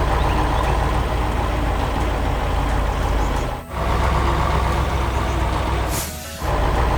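Heavy truck engine running with a steady deep rumble. It drops out briefly about three and a half seconds in, and again near the end under a short hiss like an air brake releasing.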